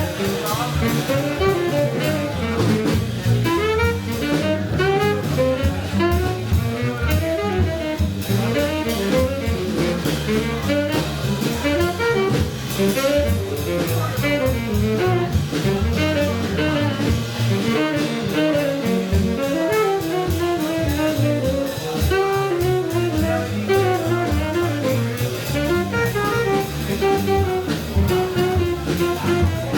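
Live jazz band playing, a lead melody line moving up and down over steady low bass notes and drums.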